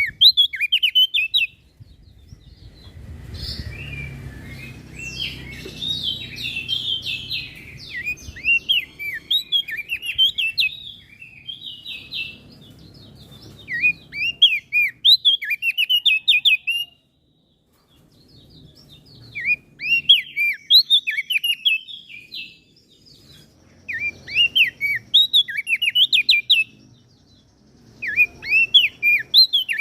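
A small songbird singing rapid phrases of sharp, up-and-down chirps, in bursts of about two to eight seconds with short pauses between them. A faint low rumble sits under the long burst near the start.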